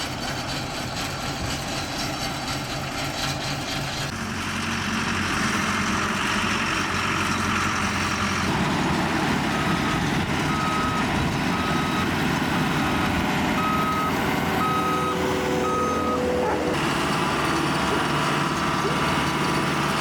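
A work vehicle's engine running, with its back-up alarm beeping about seven times, roughly once a second, in the middle of the stretch as it reverses.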